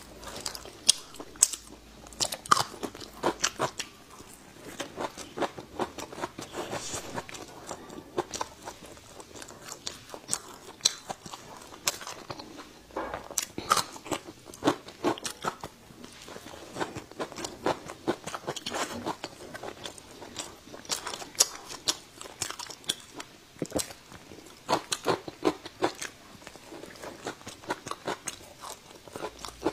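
Crisp crunching and chewing of sour-spicy pickled ginger slices, picked up close on a clip-on microphone: sharp, irregular crunches in clusters, with quieter chewing between bites.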